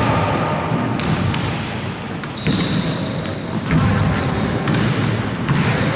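Basketball bouncing on a gym court during game play: irregular sharp bounces, with a few brief high squeaks in between and a low murmur of voices in the hall.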